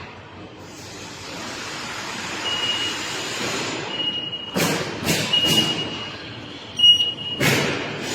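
A vehicle's reversing alarm beeping, a single high tone repeating about every second and a half, over steady machine and workshop noise. A few louder sudden bursts break in around the middle and near the end.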